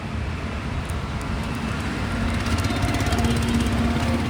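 Road traffic noise from passing and running vehicles, with a nearby vehicle engine's steady hum growing louder about two seconds in.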